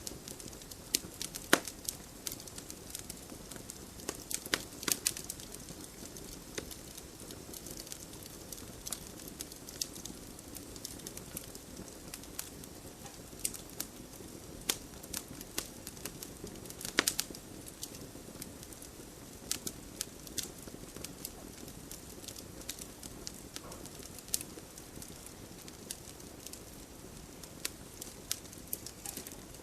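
Wood campfire crackling: irregular sharp pops and snaps over a soft, steady hiss of burning. A louder pop comes about halfway through.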